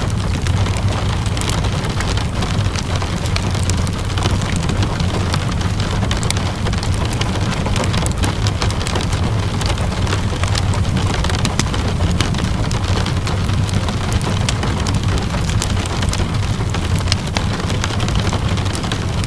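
Steady rain falling, mixed with a wood fire crackling in many small sharp pops, over a low steady rumble.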